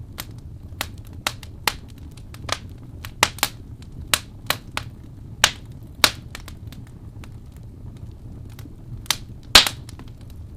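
Fireplace fire crackling: irregular sharp pops over a low steady rumble, with the loudest pop near the end.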